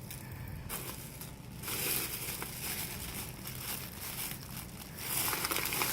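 Goodie bag crinkling and rustling as it is opened and its contents handled, in bouts that swell about two seconds in and again near the end.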